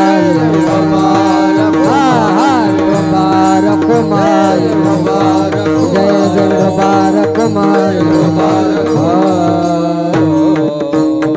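Devotional kirtan music: a voice sings an abhang over a sustained harmonium-like drone, with a hand drum beating a steady rhythm.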